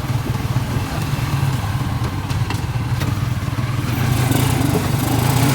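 A motor vehicle's engine running steadily, with a constant low hum under a dense rushing noise and a few faint clicks.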